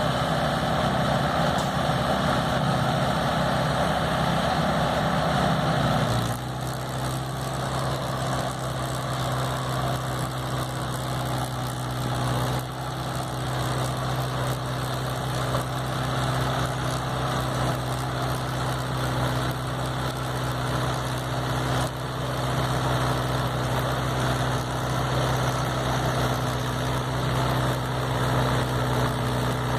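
Tractor diesel engine running steadily. Its note changes suddenly about six seconds in, then holds steady at a lower, even pitch.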